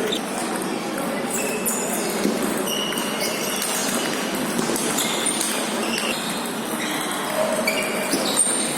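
Table tennis ball pinging off the bats and table during a rally, in irregular short clicks over a steady background of hall noise.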